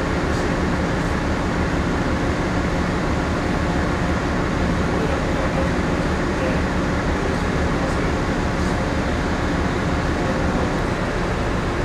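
Steady hum of a moored passenger ship's onboard machinery and ventilation, heard from inside the ship, even and unchanging with a low drone underneath.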